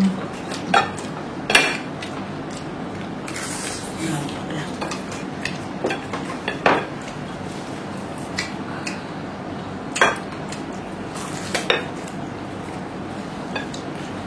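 Cutlery clinking and scraping against plates while people eat: a string of separate sharp clinks, a second or more apart, with a short hiss about three seconds in.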